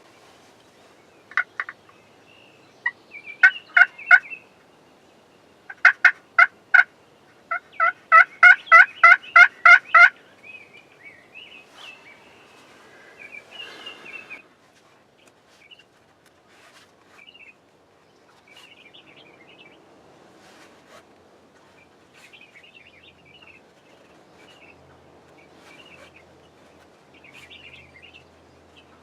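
Turkey calls: loud runs of sharp, evenly spaced yelping notes, the longest about nine notes ending some ten seconds in. Fainter, quicker calling follows.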